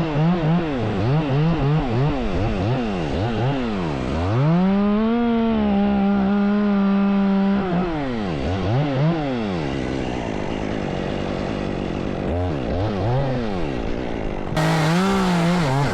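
Chainsaw engine revved up and dropped back to idle again and again. About four seconds in it is held at full throttle for roughly three seconds, its pitch sagging slightly, as it would under load in a cut.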